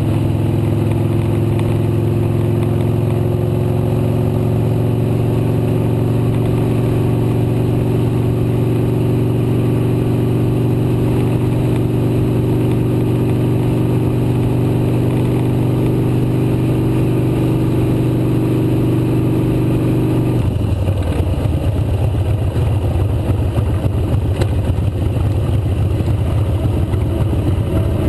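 Motorcycle engine running at a steady cruising speed. About two-thirds of the way through, its note drops to a lower, rougher sound.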